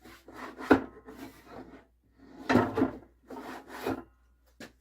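Wooden crosscut sled parts being handled, scraping and rubbing wood on wood in uneven strokes, with a sharp knock about a second in.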